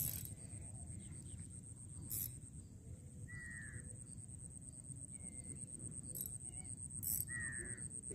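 A bird gives two short, falling calls about four seconds apart, over a steady high-pitched whine and a low rumble.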